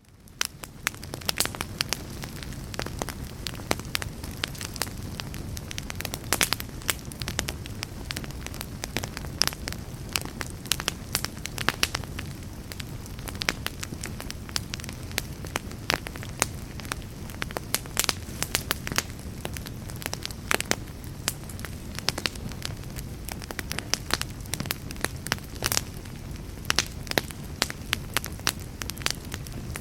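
Wood fire burning in a fireplace: a steady low rumble with frequent sharp crackles and pops from the burning logs. It fades in over the first second.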